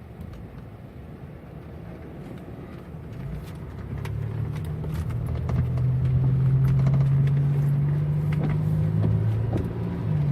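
2000 Pontiac Bonneville's 3.8-litre V6 pulling under throttle: its drone grows louder and rises in pitch from about three seconds in, then sags briefly near the end before picking up again. This stumble on acceleration is the car's hesitation under load, which the owner suspects comes from a bad crankshaft position sensor.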